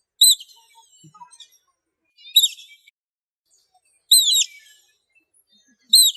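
Otter giving high-pitched chirping calls: four short chirps, each falling in pitch, about two seconds apart.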